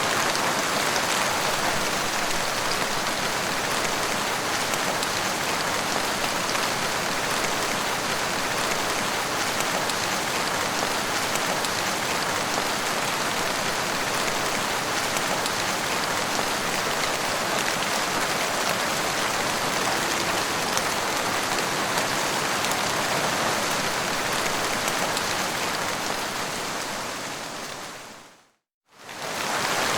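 Steady rain falling, an even, dense hiss. Near the end it fades out to a moment of silence and fades back in.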